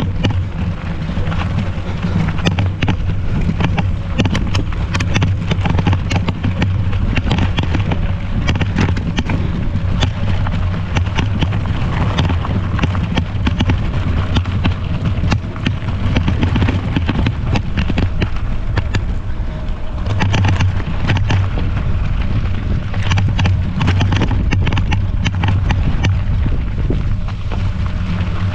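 Wind buffeting the microphone: a loud, steady rumble with frequent crackles and knocks on top.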